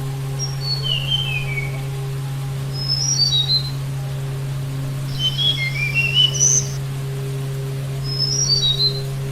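Sulingan gunung (tledekan gunung) songbird singing: repeated short phrases of clear, high whistled notes stepping down in pitch, four phrases over a steady low hum.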